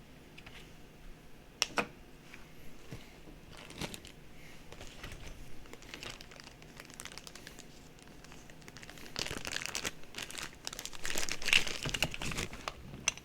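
Packaging being handled and unwrapped by hand, crinkling and rustling with scattered clicks; the crinkling grows denser and louder in the last few seconds.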